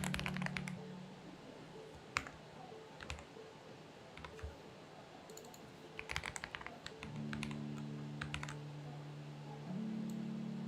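Typing on a Xinmeng X98 mechanical keyboard in short bursts: a quick flurry of keystrokes at the start, a couple of single keys, then another flurry about six seconds in. Soft background music with held low notes plays under it during the first second and again from about seven seconds on.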